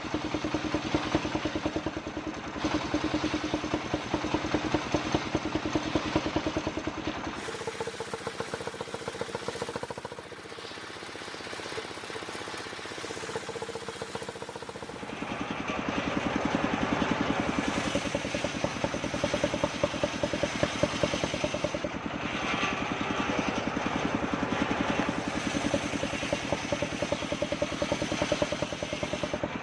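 Engine-driven circular saw running while sawing kapok wood into boards. The machine note shifts about 7 s in, drops back and quietens, then rises and grows louder again from about 15 s in.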